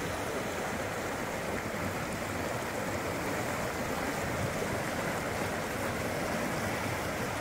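Mountain creek rushing over rocks: a steady, even rush of flowing water with a strong current.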